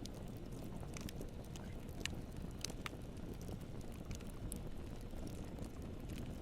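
Campfire burning with a steady low rumble of flames and irregular sharp crackles and pops of wood, a few louder snaps about two to three seconds in.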